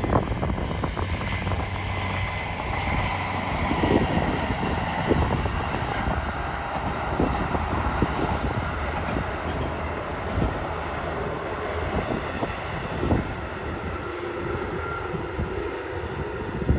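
A train running past on the rails: a steady rumble with scattered knocks from the wheels and short high-pitched wheel squeals around the middle.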